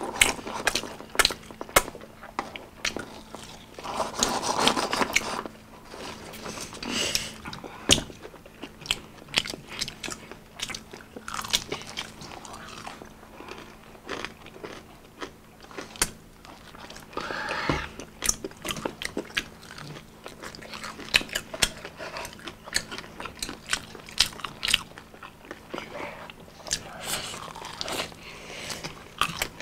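Crunchy biting and chewing of fried food, mainly crisp fried chicken: irregular crunches and sharp mouth clicks, with denser bursts of crunching a few times.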